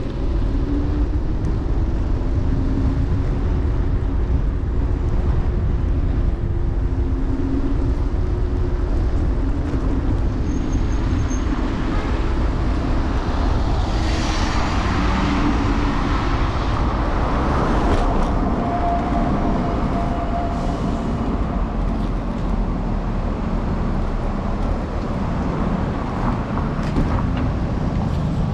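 City street traffic and road noise heard from a moving electric scooter: a steady low rumble, with a louder swell of passing-vehicle noise about halfway through.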